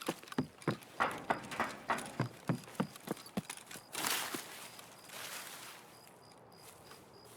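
A quick, even series of about a dozen light knocks or clicks, roughly three a second, followed by two short rushes of hissing noise.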